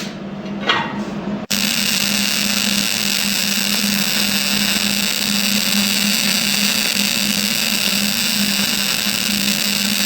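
CO2 gas-shielded (MIG) welding arc running at about 100 A and 20 V, a steady even hiss with a constant low hum. It starts abruptly about a second and a half in, after a brief quieter, different sound.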